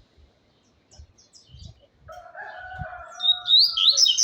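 A rooster crows once, a single held call starting about halfway through. Then a double-collared seedeater (coleiro) breaks into its loud, fast song of quickly repeated high notes near the end.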